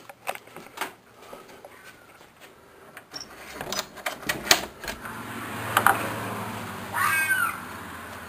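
Clicks and knocks as a door is opened, then about seven seconds in a single pitched, screeching animal cry from outside, the crying scream of an animal that sounds to be in distress. A steady low hum comes in once the door is open.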